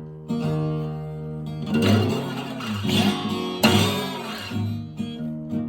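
Guitar playing a blues instrumental passage between sung lines: ringing plucked notes, with hard-struck chords about two seconds in and again a little past the middle.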